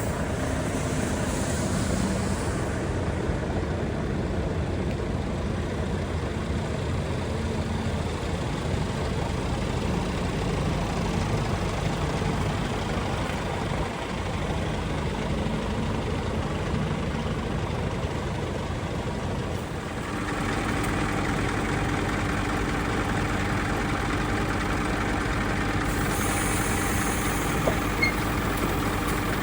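A Scania P410 truck's diesel engine running steadily at idle. About twenty seconds in, a steadier, higher hum joins it. There is a short hiss of air near the start and again near the end.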